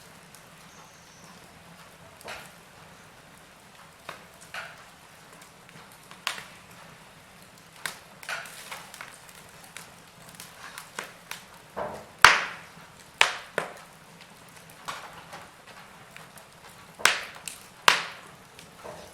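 Wood fire crackling: irregular sharp pops and snaps from burning logs over a faint steady hiss, with the loudest pops about twelve seconds in and twice near the end.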